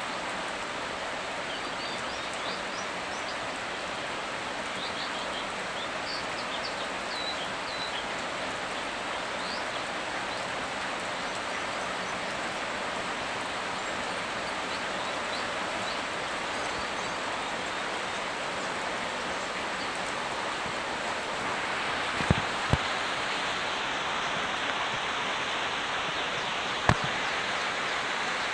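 Steady rain falling, an even hiss that grows a little fuller about two-thirds through, with faint bird chirps in the first third. Near the end come three sharp taps, two close together and one a few seconds later, the loudest sounds here.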